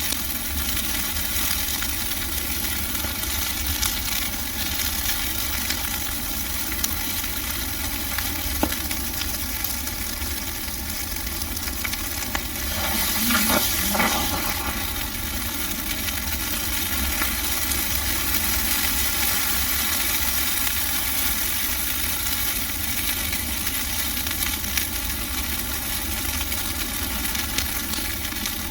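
Bonfire of dry Christmas trees burning: a steady crackling hiss with scattered sharp pops, and a brief louder surge about halfway through.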